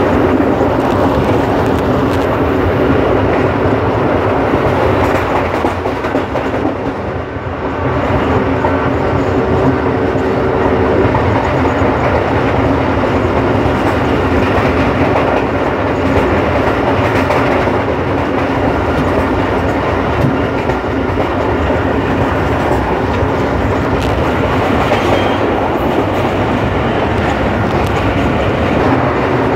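Express train running at speed, heard from aboard: a loud, steady rumble of the wheels on the rails, briefly quieter about seven seconds in.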